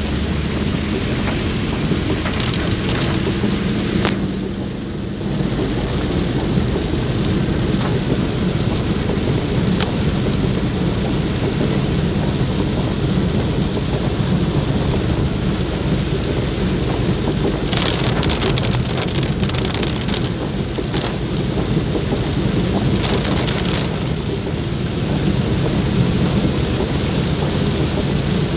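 Heavy rain falling on a moving car's roof and windshield, heard from inside the cabin over a steady low rumble of the car and wet road. The hiss swells briefly a few times in the second half.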